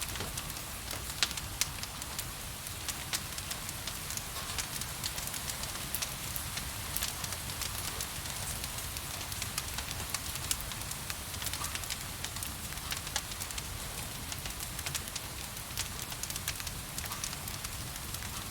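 Wood fire crackling in a fireplace, with irregular sharp pops and snaps over a steady hiss of rain and a low rumble.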